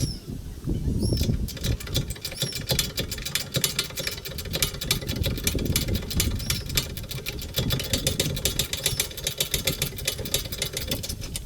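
Ratchet spanner clicking rapidly as it turns a brake caliper bolt, a steady run of sharp ticks several times a second.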